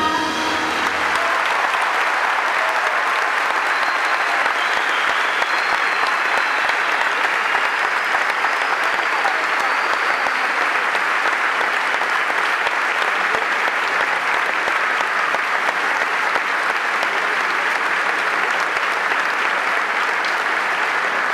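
A large concert audience applauding and cheering after a song ends, as the last notes of the band fade out about a second in. Dense, steady clapping with a few whistles.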